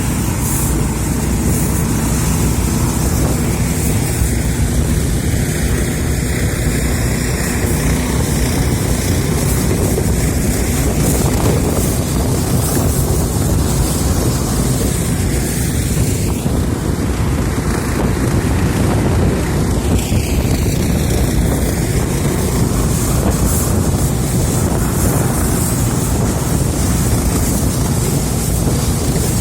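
Motorboat under way, its engine running steadily under heavy wind noise on the microphone and rushing water.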